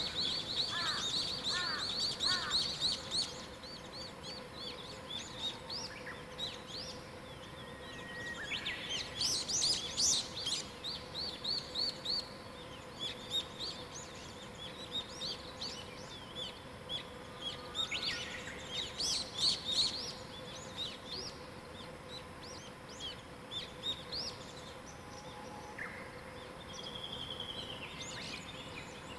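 Several wild songbirds singing at once in a morning chorus: overlapping quick chirps, trills and whistled phrases, with louder bursts of song about a third and two thirds of the way through.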